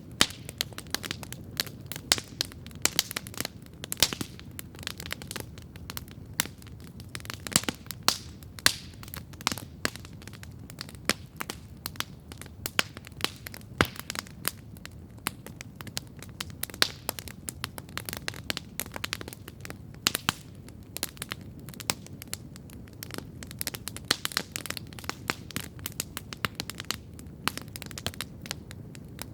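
Wood campfire crackling steadily, with many irregular sharp pops and snaps over a low, even rush of the flames.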